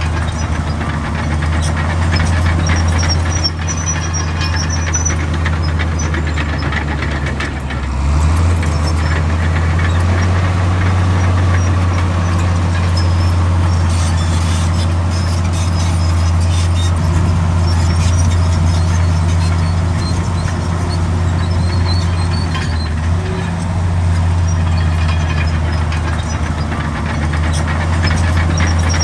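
Heavy diesel earthmoving machinery running: a steady low engine drone that dips briefly about eight seconds in, with faint high squeaks here and there.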